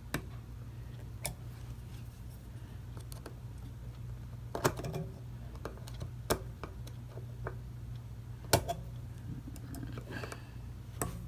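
Irregular sharp clicks and small scrapes of a screwdriver working against a clock movement's metal parts and spring wire, over a steady low hum.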